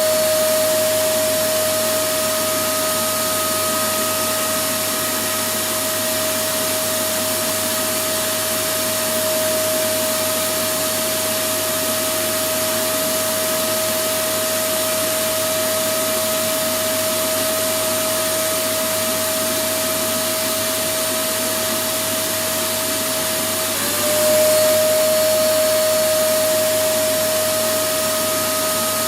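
Electric vacuum cleaner running steadily: an even rushing hiss of air with a steady motor whine. About 24 seconds in, the whine briefly drops in pitch, climbs back and the sound gets a little louder.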